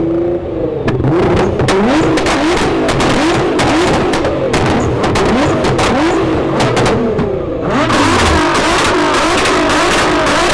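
Sports car engine revving hard and accelerating, its pitch climbing and dropping back over and over, with sharp exhaust crackles and pops. About eight seconds in the sound turns suddenly brighter and fuller.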